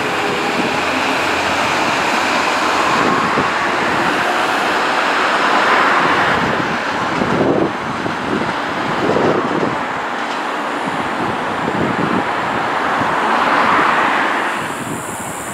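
Electric commuter train running past on the line, a steady running noise of wheels on rails that swells and eases as the cars go by.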